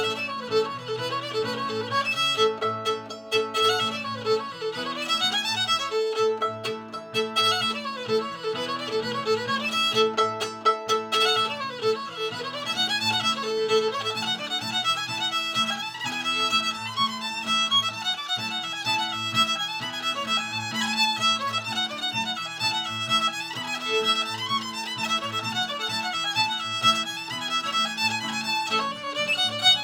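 Solo fiddle playing an old-time bluegrass fiddle tune, with held notes and sliding pitches.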